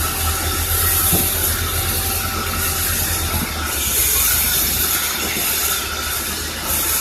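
Sawmill machinery running: a steady low motor drone with a loud hiss that swells and fades every second or two, and a few faint squeaks.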